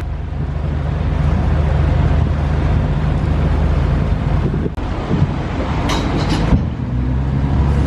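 Passenger ferry's diesel engine running steadily as the boat gets under way, a low hum under wind buffeting the microphone, with a few short knocks about five to six seconds in.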